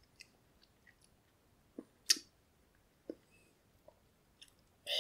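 A few faint wet mouth clicks and smacks from a person chewing a bite of super hot chili pepper, the loudest about two seconds in.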